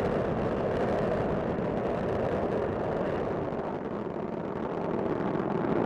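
Space Shuttle Discovery climbing under full thrust, its solid rocket boosters and main engines making a steady rumbling roar that dips slightly partway through and swells again near the end.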